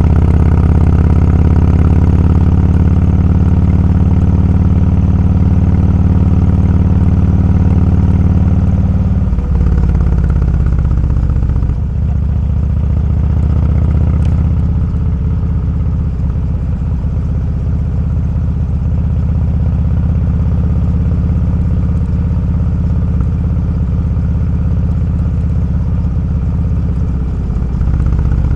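Motorcycle engine running on the road. Its note drops sharply about nine seconds in, as the bike slows or shifts, and it then runs on at a lower, steadier pitch.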